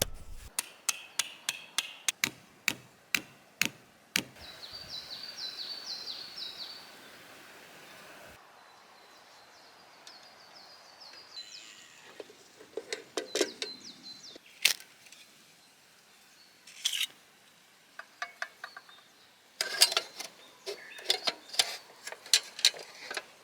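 Sharp knocks and taps in quick series. Between them a bird sings a rapid, repeated high chirping phrase, twice.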